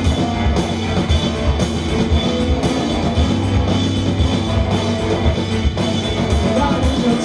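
Live rock band playing an instrumental stretch between sung lines. The drum kit keeps a steady beat under electric guitars and bass.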